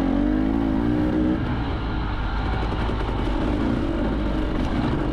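Enduro motorcycle engine running under throttle off-road. Its pitch climbs over the first second and a half, then eases off and picks up again a little later, over a constant rush of noise.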